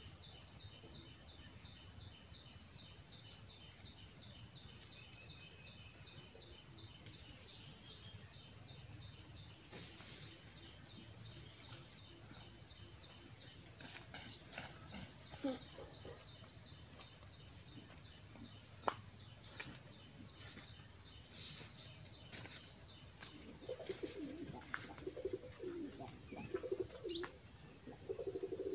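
Birds calling over a steady high-pitched insect drone: scattered chirps and short whistles from about halfway, and a dove cooing repeatedly near the end.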